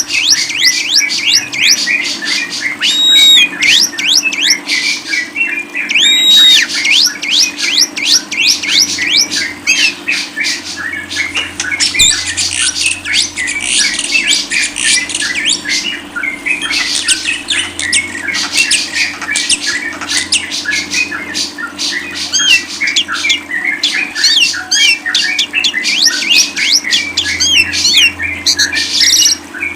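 Lovebird chattering non-stop: a rapid, high-pitched stream of squeaky chirps and short whistled notes with no break, over a faint steady low hum.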